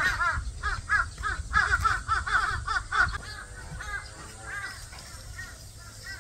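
Birds calling: many short, repeated calls in quick succession, loudest in the first three seconds and growing fainter after that.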